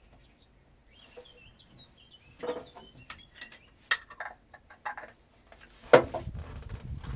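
A few sharp metallic clinks and knocks, the loudest about six seconds in, with small birds chirping in the first half.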